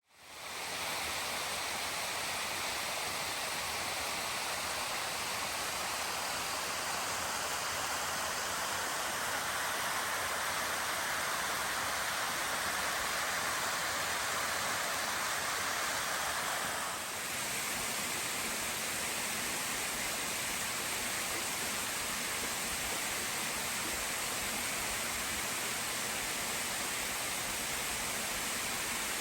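Waterfall, falling water rushing in a steady, even hiss. It fades in at the start, and a little past halfway the level dips briefly and the tone changes slightly.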